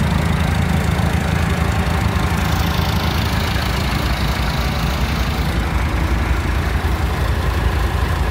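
Massey Ferguson 390 4x4 tractor's diesel engine idling steadily.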